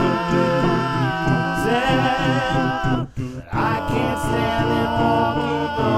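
A cappella vocal music: several voices holding layered harmonies over a repeating low vocal bass pattern, breaking off briefly a little past halfway before going on.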